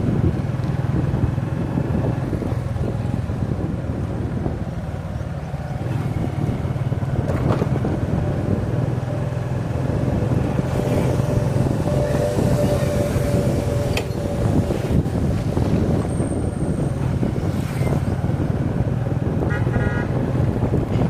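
Motorcycle engine running steadily under way, with road and wind noise. A vehicle horn sounds for about four seconds midway, and a shorter, higher horn toots near the end.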